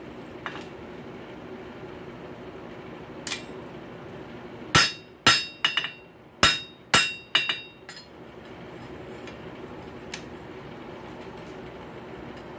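Blacksmith's hammer striking a forged rail spike door handle on the anvil: a quick run of about seven ringing blows in the middle, with a few lighter single taps before and after. The blows are truing the handle so its ends sit flat together.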